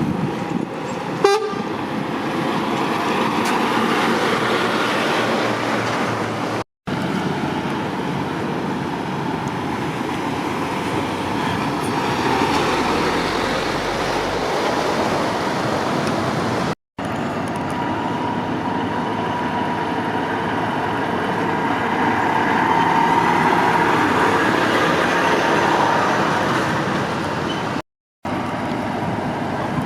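Motorway traffic with lorries and cars passing: steady tyre and engine noise that swells and fades, with a brief sharp knock about a second in.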